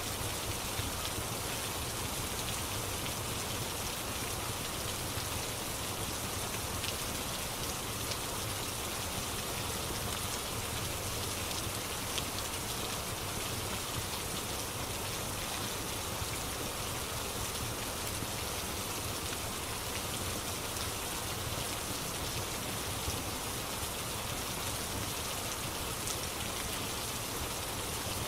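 Steady rain ambience, an even hiss, with a few faint crackling pops from a fireplace here and there.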